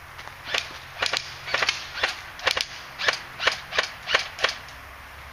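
Airsoft guns firing single shots in quick succession: about a dozen sharp cracks at roughly two to three a second, irregularly spaced, stopping shortly before the end.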